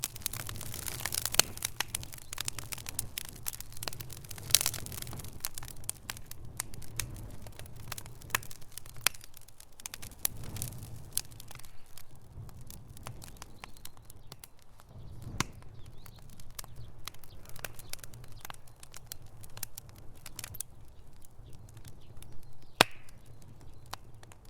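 Wood fire in a fireplace crackling, with irregular sharp pops and snaps over a low rumble of flame. The pops come thick in the first half and thin out later, with a few single loud snaps.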